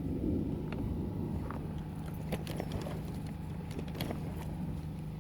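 A steady low engine hum runs under scattered light clicks and taps, which cluster in the middle.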